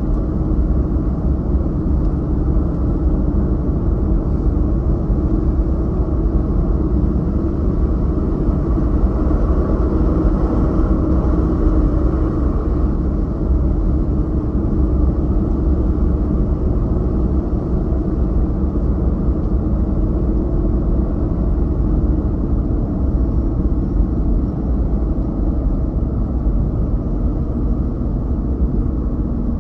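Steady road and engine rumble heard from inside a moving car's cabin, an even low drone with no change in pace.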